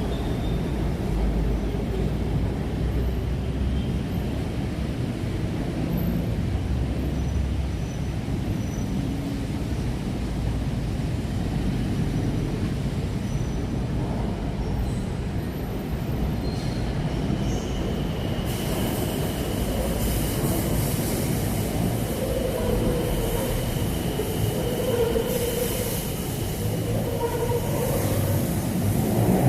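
Steady low rumble of passing vehicles, with a whine that rises in pitch at the very end.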